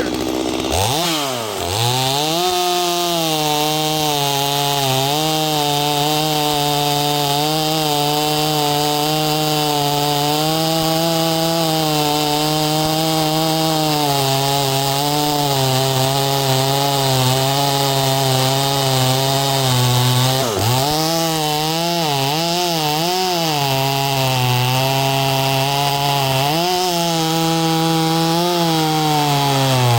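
Two-stroke chainsaw, a clone of the Stihl MS250, running at full throttle while cutting through a log. The engine pitch sags under load, dipping sharply about a second in and again about twenty seconds in, wavering for a couple of seconds before picking back up.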